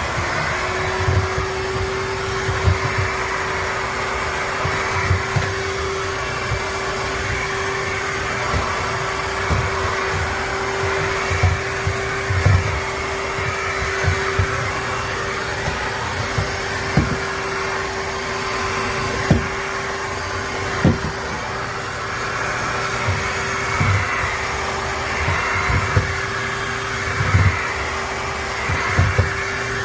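Shark HydroVac MessMaster cordless wet-dry vacuum running: a steady motor drone with one constant hum and a hiss, broken by irregular low thumps.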